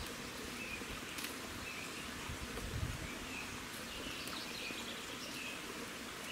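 Small birds chirping now and then under a steady outdoor hiss, with a single sharp click a little over a second in and a brief low rumble near the middle.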